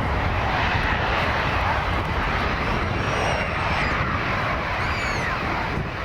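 Jet airliner passing close overhead, its engines making a loud, steady rumble, with a few short high chirps over it.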